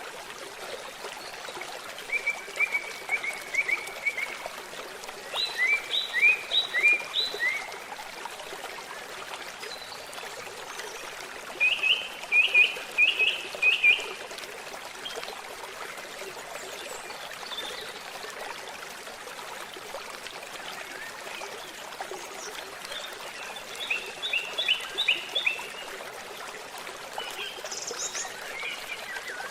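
A babbling stream running steadily, with a bird singing over it in short phrases of quick repeated chirps, five times.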